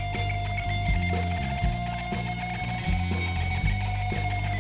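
Live rock band: the electric guitar holds one sustained note as a one-note solo over a steady bass and drum groove.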